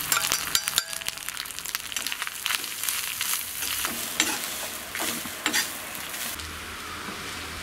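Grated coconut, dried red chillies and shallots frying in a little oil in a black kadai, sizzling, while a steel spoon scrapes and stirs them in many quick strokes: the coconut masala being roasted.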